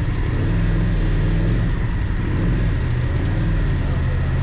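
BMW F 800 GS parallel-twin engine running steadily while riding, under a constant rush of wind noise.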